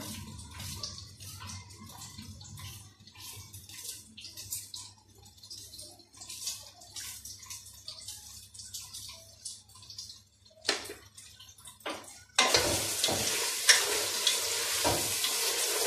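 A knife slicing onions on a ceramic plate in light, quick cuts, with a faint hum behind it. Near the end come two knocks as the knife is set down, then a loud, steady sizzle with crackles starts suddenly: taro frying in hot oil as it is stirred.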